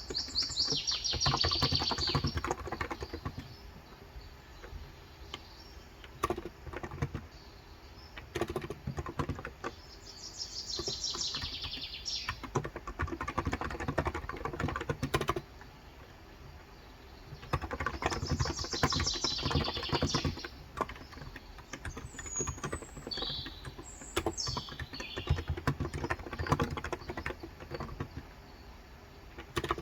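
Typing on a Cox Endeavor electrostatic capacitive (Topre-style) keyboard with 35 g switches: fast runs of soft keystrokes in several bursts with short pauses between. Birds chirp outside, with a few falling calls about two-thirds of the way through.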